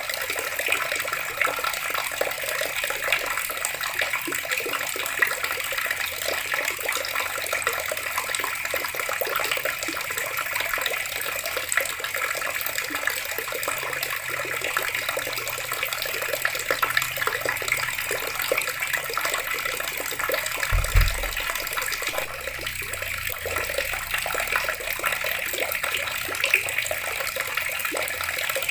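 Water running steadily from a tap, a continuous splashing stream. About two-thirds of the way through there is a brief low thump.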